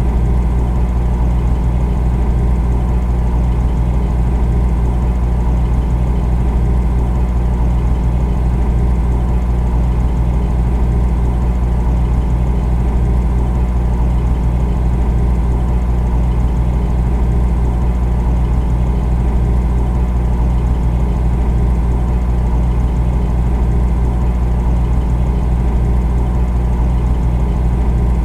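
Refrigerator running with a steady, low hum.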